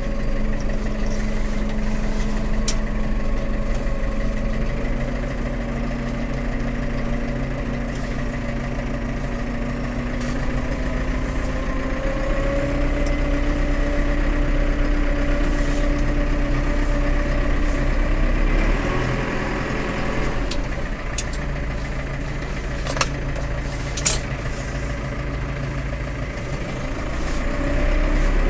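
McCormick CX95 tractor's diesel engine running, its revs climbing slowly for most of the time, then dropping back about two-thirds of the way through. A couple of sharp clicks near the end.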